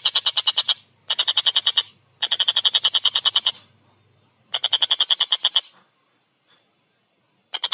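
Tengkek buto kingfisher calling a fast, rattling 'kek-kek-kek' of about nine harsh notes a second, in four runs broken by short pauses. Near the end it falls silent for about two seconds, then starts again.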